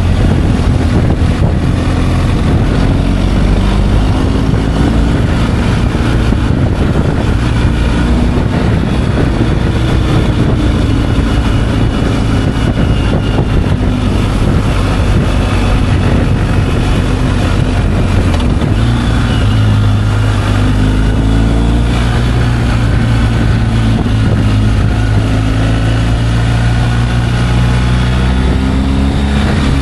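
Motorcycle engine running at road speed with wind rushing over the microphone; the engine note rises and falls gently with speed changes, and its low drone grows stronger about two-thirds of the way through.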